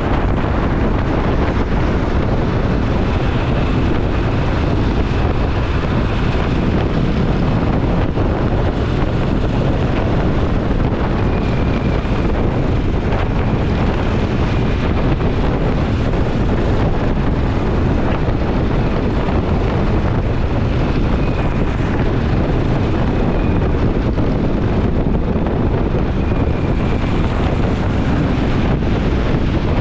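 Wind buffeting an action camera's microphone on a moving motorcycle, with the engine running steadily underneath at cruising speed.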